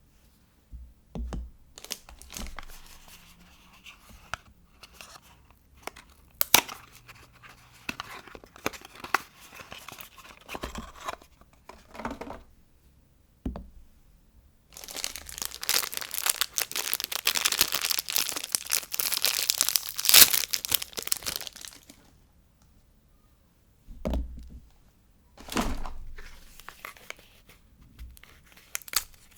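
Soap packaging being unwrapped by hand: paper and plastic wrappers crinkling and tearing with scattered taps. A long, loud stretch of ripping and crinkling runs through the middle.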